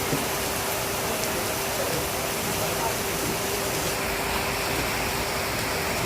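Heavy rain falling, a steady even hiss, with a faint steady hum underneath.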